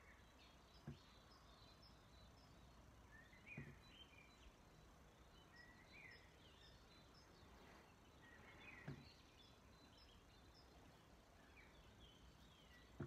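Faint birds chirping, with short rising and falling calls every few seconds, over a quiet background and three soft low thumps.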